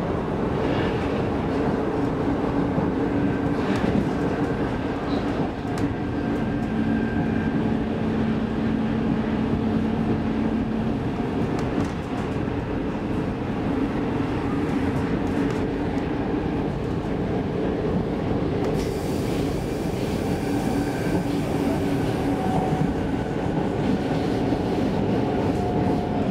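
Interior running noise of an X10 electric commuter train at speed: a steady rumble of wheels on the track. A low hum holds for several seconds midway, and a brighter hiss comes in during the last third.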